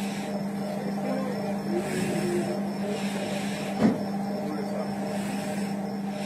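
Steady low hum inside a train coach, with faint voices and a single sharp knock a little under four seconds in.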